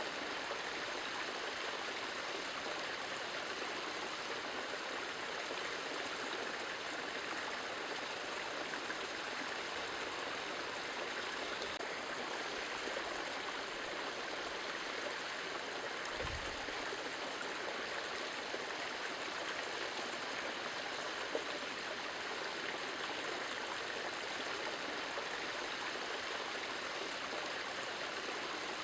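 Steady, even rushing of running water, unchanging throughout, with a single brief low thump about sixteen seconds in.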